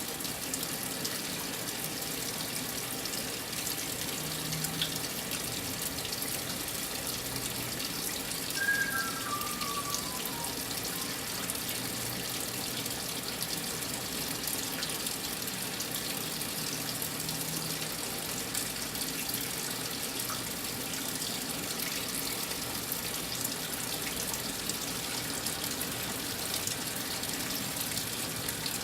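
Brastemp 9 kg top-loading washing machine taking in water, a steady rush like a running tap as the drum fills to the high water level. About nine seconds in, a short run of tones steps downward in pitch.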